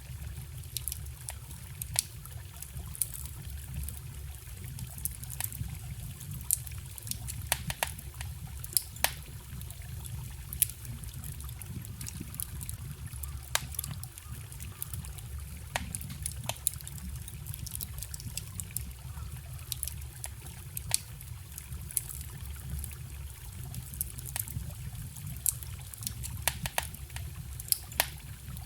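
Wood campfire crackling, with frequent irregular sharp pops and snaps, over the steady low rush of a forest stream.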